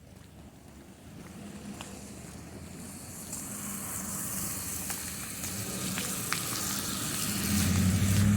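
A vehicle approaching on a snowy road: its tyres hiss and its engine hums, growing steadily louder until it is closest near the end.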